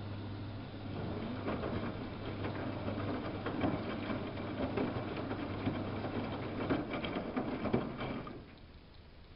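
Samsung WF71284 washing machine running, with a steady low hum and then a busy patter of water and laundry in the turning drum, which stops abruptly about eight seconds in.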